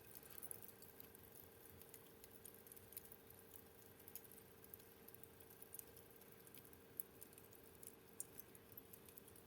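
Faint crackling fire: scattered small pops and ticks, a couple of louder snaps near the end, over a faint steady hum.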